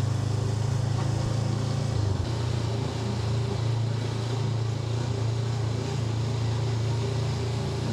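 Honda NX500's parallel-twin engine running steadily at low revs while riding, with a brief dip in engine note about two seconds in.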